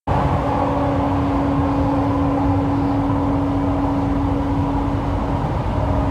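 Jakarta LRT train running, heard inside the carriage: a steady rumble and rush with one steady humming tone held throughout.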